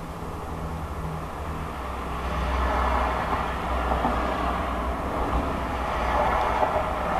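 Low, steady rumble under a broad rushing noise that swells about two seconds in and then holds, picked up by a mobile phone held out of a window. This is the 'strange sound' the recording was made to capture.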